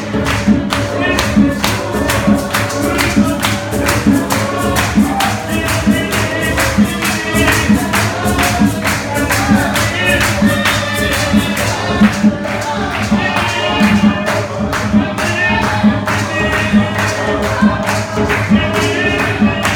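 Live gospel music in a church service: voices singing over a fast, steady percussion beat.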